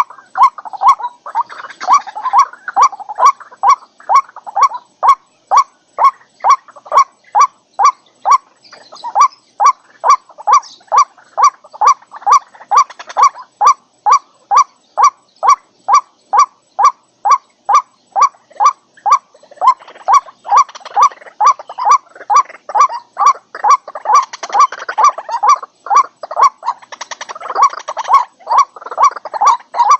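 White-breasted waterhen calling: a long, monotonous string of loud, evenly repeated notes, about three a second, with rougher overlapping calling joining in at times.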